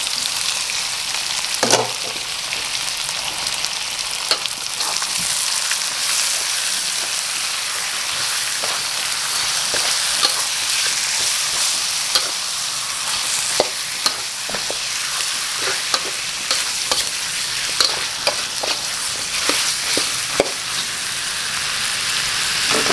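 Raw chicken pieces sizzling in hot oil in a wok, just added to fried aromatics, with a metal ladle now and then scraping and knocking against the pan as they are stirred.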